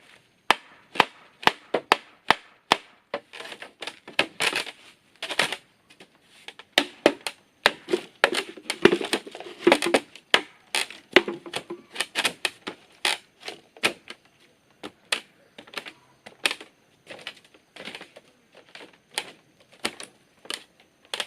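An irregular series of sharp knocks and taps, about two to three a second, with short scraping noises between some of them.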